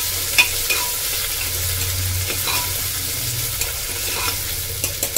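Chopped tomatoes and green chillies frying with onions in hot oil in a pressure cooker: a steady sizzle while a steel ladle stirs them, with a few short clinks of the ladle against the pot.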